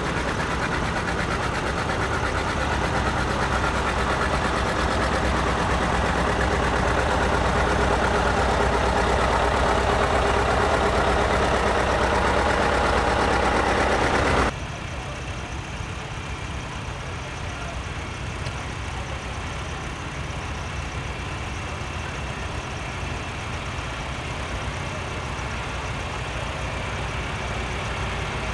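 Antique tractor engines running steadily. About halfway through, the louder engine cuts off abruptly and a quieter engine carries on.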